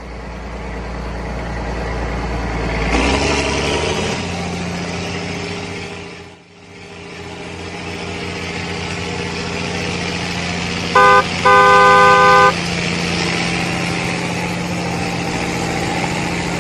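Tractor engine running steadily, briefly dropping away about six seconds in. A horn honks twice about two-thirds of the way through, a short toot then a longer one, louder than the engine.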